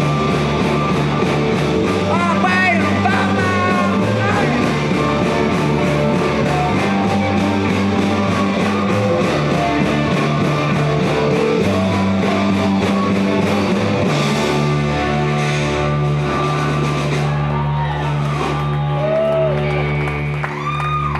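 Live rock band playing loudly with a steady drumbeat, electric guitars and bass, with singing in the first few seconds. About two-thirds of the way in the bass settles into a held, repeated pattern and the drumbeat thins out.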